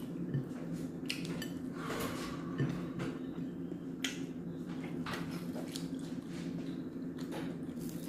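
Close-miked eating sounds: chewing and mouth clicks, with a few light taps like fingernails on a plate, over a steady low hum.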